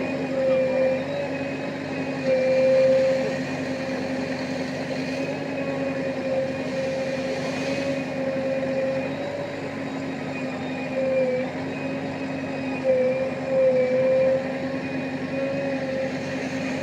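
Diesel engine of a JCB construction machine running steadily, its pitch wavering slightly and swelling louder briefly a couple of times.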